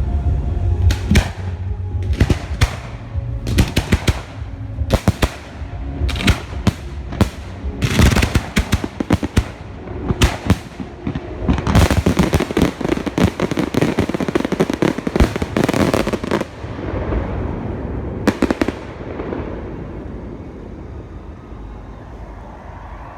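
Large fireworks display: shells bursting in rapid succession, building to a dense crackling barrage, then thinning out after about sixteen seconds, with a last few bangs near eighteen seconds before it dies away.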